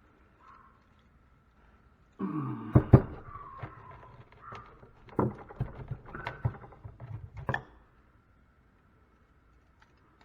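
Metal scrap being worked by hand: scraping and creaking with a string of sharp knocks and clanks, the loudest about three seconds in, between about two and eight seconds in.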